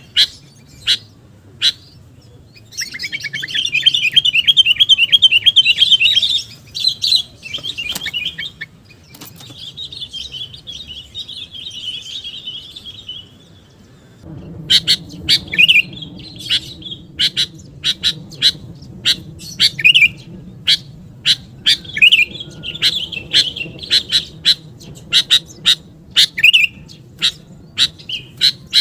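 Sooty-headed bulbul calls: sharp single chirps, a fast chattering run about three seconds in, a softer chatter later, then from about halfway a rapid string of short repeated notes over a low steady hum. This is a bulbul lure call.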